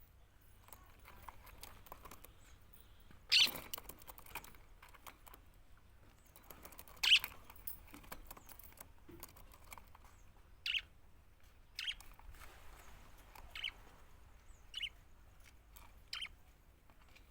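Budgerigars giving short, sharp chirps, one every second or two, the loudest two about three and a half and seven seconds in.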